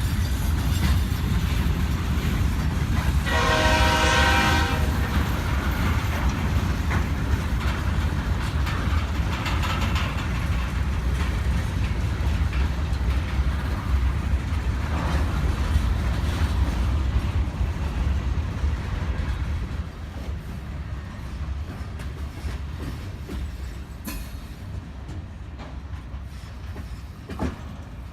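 Diesel freight train running past with a steady low rumble and some wheel clatter, with one short horn blast about three seconds in. The sound eases off about twenty seconds in as the train moves away.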